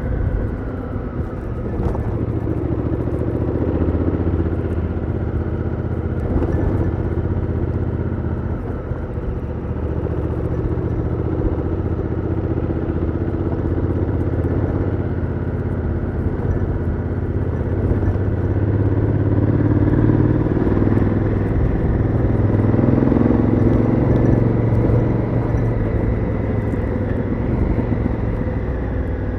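Honda Africa Twin CRF1000L's parallel-twin engine running through its stock exhaust, heard onboard while riding, a little louder in the second half.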